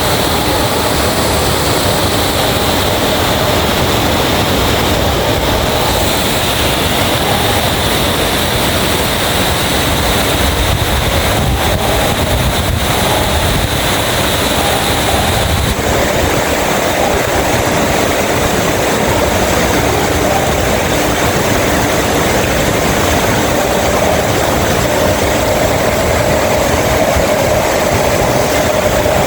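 Heavy rain falling in a steady downpour: a loud, even wash of noise that holds level throughout.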